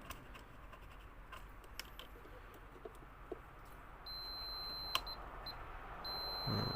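Continuity meter beeping as its probes touch the vacuum cleaner's cable-reel wiring: a steady high beep about a second long starting about four seconds in, and a second one near the end, each signalling a closed circuit through the wire under test. Light clicks of the probes on the contacts.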